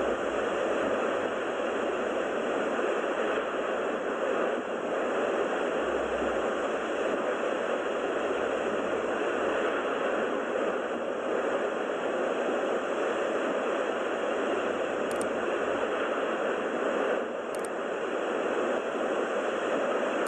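Steady, even rushing roar of the erupting Cumbre Vieja volcano on La Palma, with no pauses, and two faint short ticks near the end.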